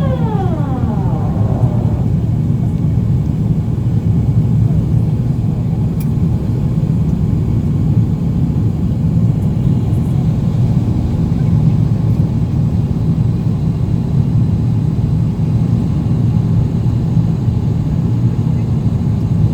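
Steady low cabin rumble of an Airbus A350-900 in flight, from its engines and the airflow over the fuselage. At the start a whine falls in pitch and fades out within about two seconds.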